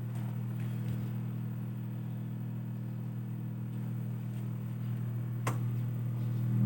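Steady low-pitched hum, with a single sharp click about five and a half seconds in.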